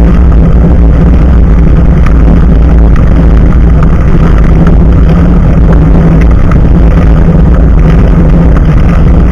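Loud, steady rumble of a bicycle ride picked up by an action camera mounted just above the front tyre: tyre noise on the road and wind on the microphone, with faint scattered ticks.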